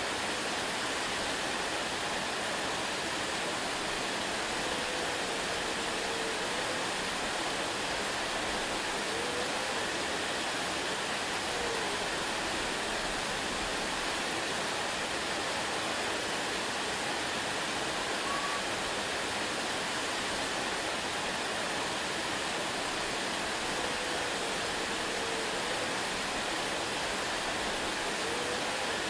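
Waterfall: a steady, even rush of falling water with no change in level, with faint short whistle-like notes now and then.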